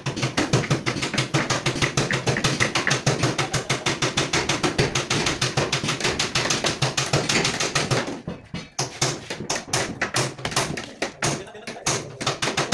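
Rapid, even tapping, about seven sharp strokes a second, dense for most of the time and sparser and more irregular near the end.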